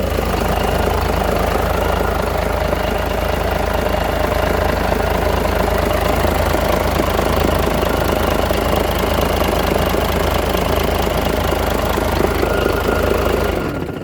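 Scania D8 diesel engine running steadily, then cutting off abruptly near the end.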